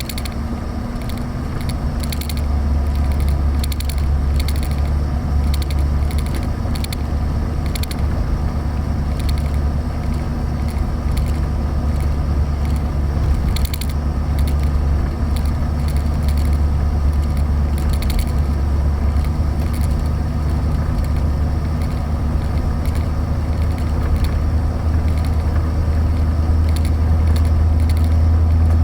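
2013 Chevrolet Avalanche running: a steady low engine drone, growing a little louder near the end, with irregular light clicking and rattling over it.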